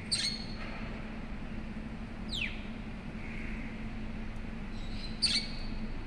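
A bird calling: a sharp, clipped call near the start, a quick downward whistle about two seconds in, and a second sharp call about five seconds in. A low steady hum runs underneath.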